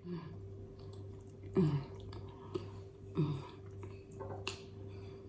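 A person chewing food close to the microphone, with small wet mouth clicks and smacks. Three short falling hums come about a second and a half apart.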